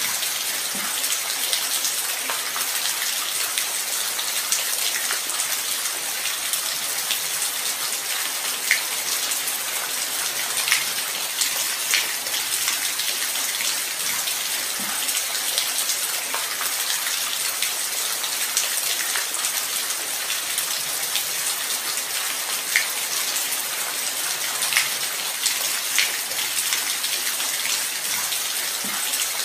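Steady light rain: an even hiss of falling rain with single drops now and then standing out as brief ticks.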